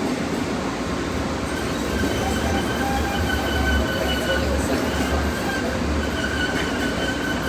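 MBTA Green Line light rail train (Type 7 and Type 8 cars) running through the subway tunnel, heard from inside the car. It has a steady rumble, and from about two seconds in a deeper rumble and thin high-pitched squealing tones from the wheels join in.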